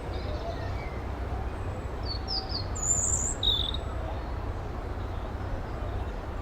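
Birds chirping a few times, short high calls about two to three and a half seconds in, over a steady low rumble.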